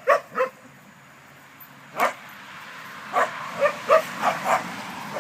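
A dog barking in short bursts: two quick barks at the start, a single bark about two seconds in, then a fast run of about five barks near the end.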